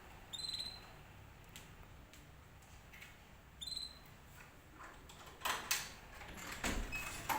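Canary giving two short, bright call notes about three seconds apart, each a quick upslurred whistle, followed near the end by a cluster of clicks and rustling.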